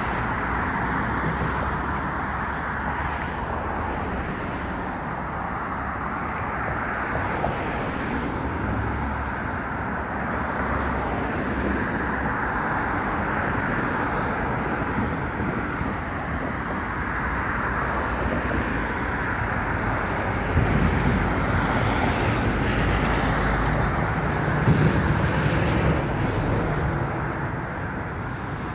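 Road traffic going by: a steady hiss of tyres and engines, with a heavier, lower-pitched vehicle passing about two-thirds of the way through.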